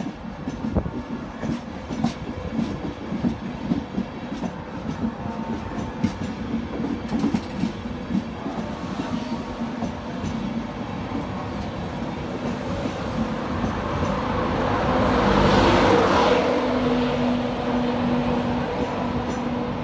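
LNER InterCity 225 electric train moving off: Mark 4 coaches pass with their wheels clicking over the rail joints, then the Class 91 locomotive pushing at the rear goes by, loudest about fifteen seconds in, with a steady low drone from its traction equipment.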